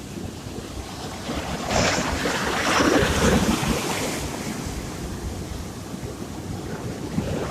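Sea surf with a steady rush of waves; one wave breaks louder about two seconds in and dies away over the next two seconds.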